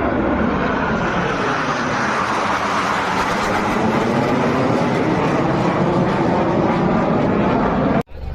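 Military jet aircraft flying past at an air show: a loud, steady rush of jet noise whose tone sweeps as it passes. It cuts off suddenly near the end.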